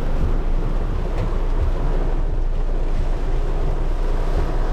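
Heavy rain falling on a car, heard from inside the cabin as a steady dense hiss with a low rumble underneath.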